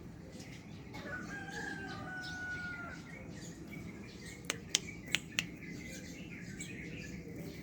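A rooster crows once, a single long held call starting about a second in and lasting about two seconds. Later come four sharp clicks.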